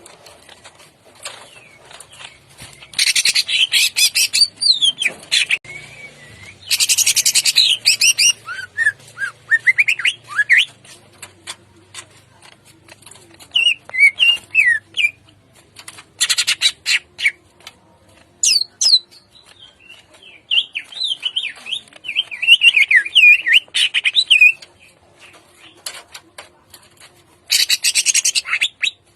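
Greater green leafbird (cucak ijo) singing in harsh 'tembakan' bursts: about four spells of very rapid rattling notes, with whistled rising and falling phrases and chirps between them.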